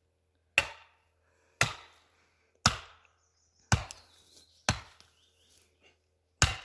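Six sharp blows of a tool on wood, about one a second, with a longer gap before the last.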